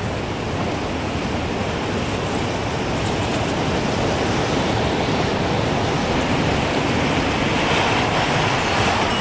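Gusting wind, a steady rushing that slowly builds louder, with the first faint tinkles of a wind chime coming in near the end.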